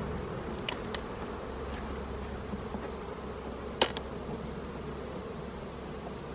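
Honeybees buzzing steadily around an open hive, with a few light clicks and one sharper knock a little under four seconds in.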